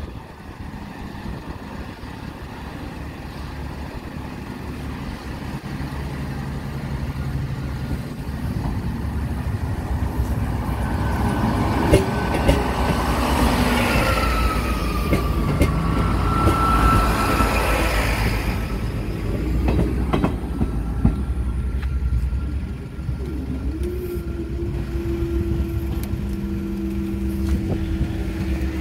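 Diesel multiple unit train pulling away and rolling slowly over a level crossing, loudest as it passes close by, with a tone that falls in pitch as it goes past. Near the end a steady motor hum starts with a short rise in pitch as the crossing barrier lifts.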